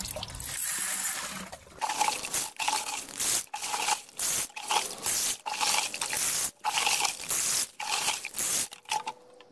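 Water and coarse gravel pouring from a small cup and striking a silver spoon, coming in spurts about twice a second, each a short gritty splash. The falling stones blast the metal, pitting it into a frosted patina.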